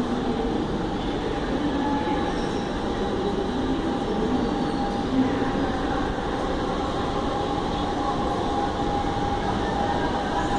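Electric commuter train running into a station platform: steady rumbling running noise with a constant high-pitched whine that grows stronger near the end.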